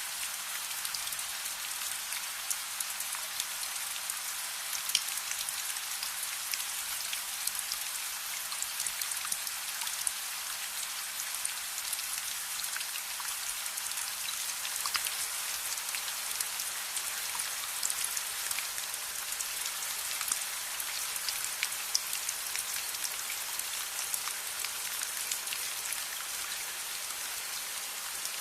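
Steady rain falling, an even hiss with many sharp ticks of individual drops scattered through it.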